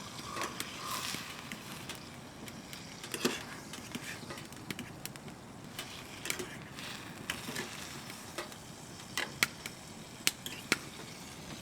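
Scattered light clicks and knocks of cooking gear being handled, over a faint steady hiss.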